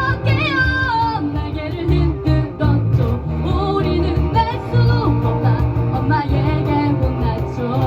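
Live amateur rock band playing: acoustic and electric guitars, bass guitar and cajon, with a wavering lead melody over a steady bass line and beat.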